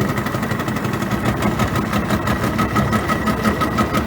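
A motor engine idling steadily, with an even rhythmic pulse of several beats a second and a faint steady whine above it.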